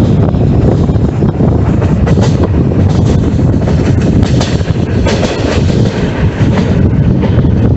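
Passenger train running, heard from aboard: a loud, steady rumble with irregular clacks from the wheels over the rails.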